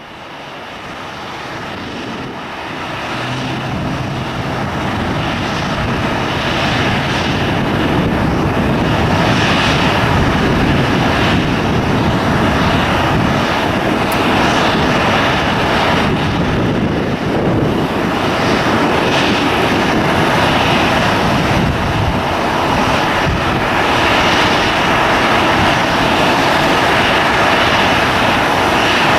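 Airliner engines growing louder over the first several seconds, then holding loud and steady as the plane passes.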